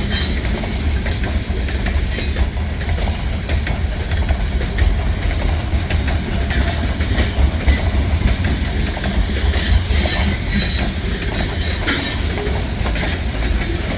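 Freight train rolling past, with a steady heavy rumble, wheel clatter and a few brief high squeals from the wheels.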